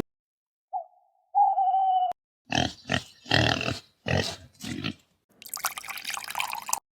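Animal sound effect: a brief high cry and a longer held one, then five short grunts in quick succession, then a longer rasping sound near the end.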